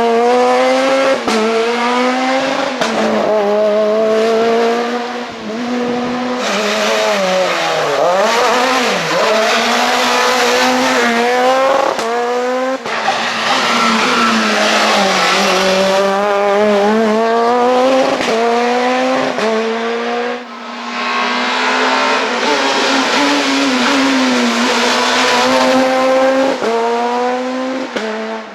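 Super 2000 rally car's naturally aspirated 2.0-litre four-cylinder engine at full stage pace, its pitch climbing again and again through upshifts and dropping off as it brakes for corners, with tyres squealing.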